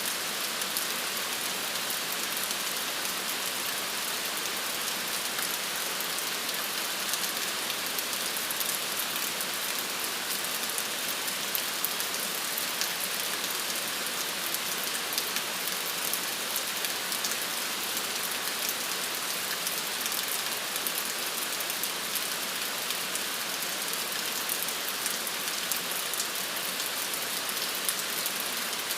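Steady rain falling on a surface: an even hiss with the patter of countless small drops.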